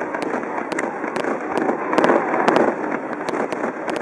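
Fireworks display: many sharp cracks and pops in quick, irregular succession over a steady rushing noise.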